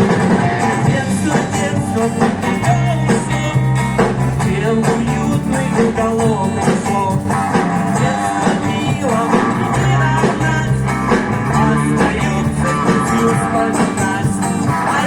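A live band playing a guitar-led pop-rock song, with singing.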